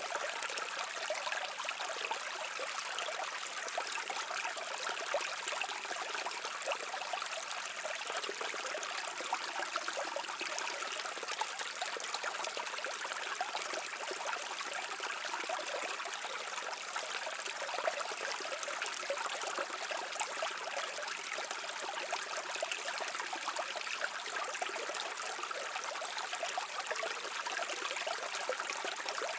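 A brook flowing steadily over stones, a continuous babbling and trickling of water.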